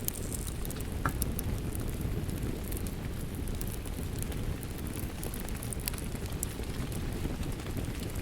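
Rain and a crackling wood fire: a steady low rush of rain, with scattered small pops and crackles from the fire throughout.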